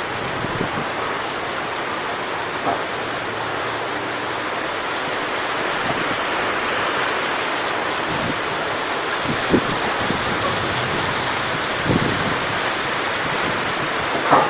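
Strong wind rushing steadily through coconut palm fronds, with a few brief knocks.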